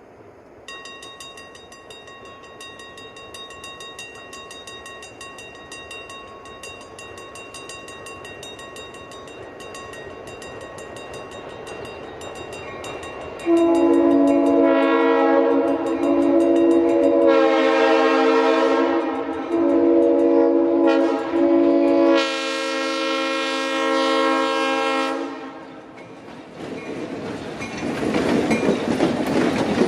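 Western Railroad Supply mechanical grade-crossing bell ringing with rapid, steady strokes. Partway through, a locomotive's multi-note horn sounds a series of long blasts with a short one among them, the grade-crossing signal, and near the end the train's wheels rumble and clatter as it passes.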